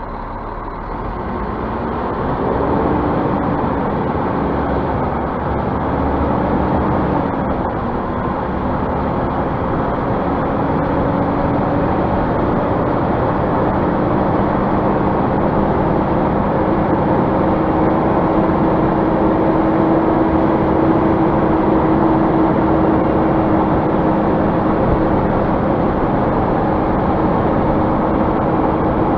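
Scania bus engine pulling away. Its pitch rises and falls twice in the first few seconds, then holds a steady note that climbs slowly as the bus drives on.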